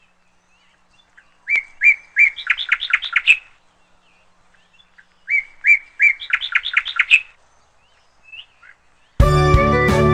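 A songbird sings the same phrase twice, a few seconds apart: a few separate notes and then a quick run of notes, each phrase about two seconds long. Music with string instruments starts about nine seconds in.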